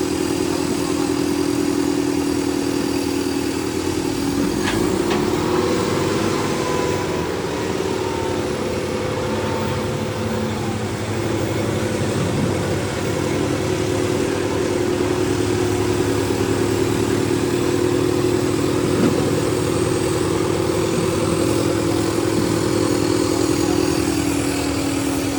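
Diesel tractor engines running hard and steadily, their pitch sagging briefly about four seconds in and again around twelve seconds, then recovering.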